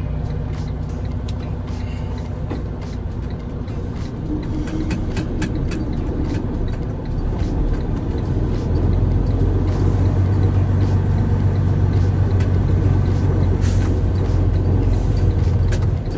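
Heavy truck's engine running with a deep, steady hum that grows louder about eight seconds in, with scattered light clicks over it.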